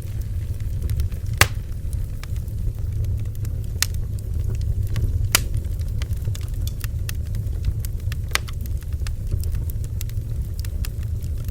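Bonfire burning with a steady low rumble, and wood crackling and popping at irregular intervals, a few sharper pops standing out.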